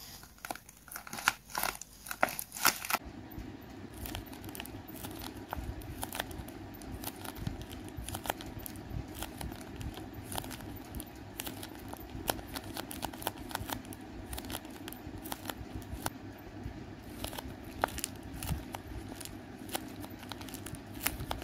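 Handmade paper squishies squeezed and pressed between fingers, the paper crinkling and crackling. Louder, sharper crackles come in the first three seconds, then a steady run of small crackles over low background noise.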